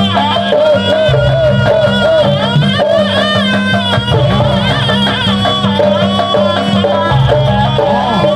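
Loud jaranan buto accompaniment music playing without a break: a wavering melody line over a repeating low rhythm of traditional Javanese ensemble percussion.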